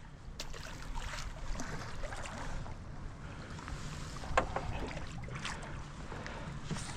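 Steady low rumble of a boat on the water, with a few scattered knocks and clicks.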